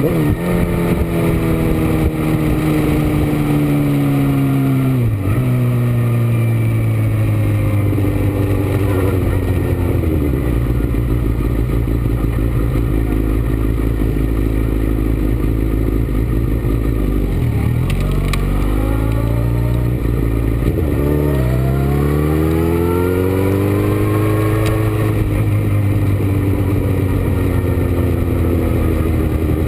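Motorcycle engine at speed, its pitch climbing and falling over and over as the rider accelerates, shifts and brakes around a race track. A steady rush of wind noise runs underneath.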